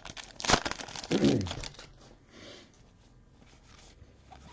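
Trading cards and their foil pack wrapper rustling and crinkling as they are handled. Sharp crackles come in the first two seconds, then fainter rustling.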